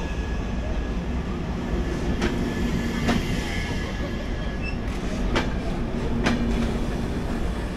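Passenger train running along the track: a steady rumble with four sharp wheel clacks over rail joints, in two pairs a little under a second apart.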